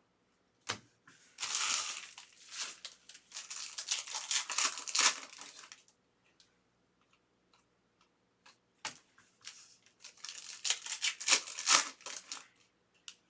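Foil trading-card pack wrappers being torn open and crinkled, in two spells of several seconds each, with a couple of single sharp clicks between them.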